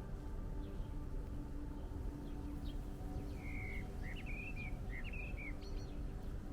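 A songbird calling: a short run of chirping notes in the second half, with fainter chirps before. Under it a steady low rumble and a faint steady hum.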